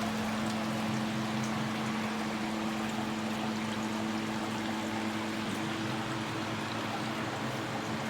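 Homemade evaporative air cooler running: its wall-fan motor hums steadily over the rush of air, while water circulated by a small aquarium-type pump trickles inside.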